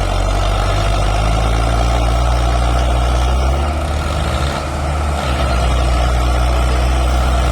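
Heavy diesel engine of farm machinery running steadily, a loud low drone that dips briefly about two-thirds of the way through.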